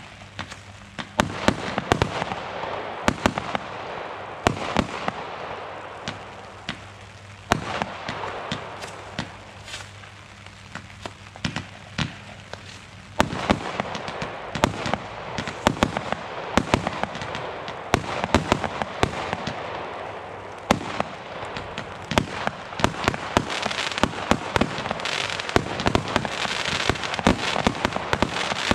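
Consumer fireworks firing: a fast, irregular series of sharp bangs with hissing and crackling between them. The firing gets denser and louder about halfway through.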